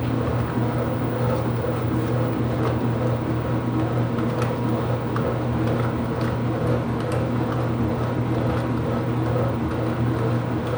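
Ipso washing machine running mid-cycle: a steady low hum with a few faint clicks now and then.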